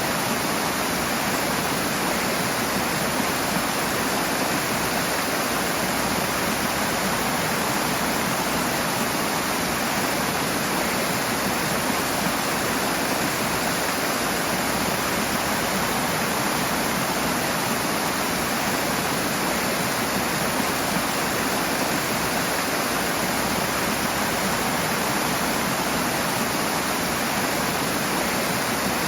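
Rushing water: a loud, steady, even roar of fast-flowing water with no breaks.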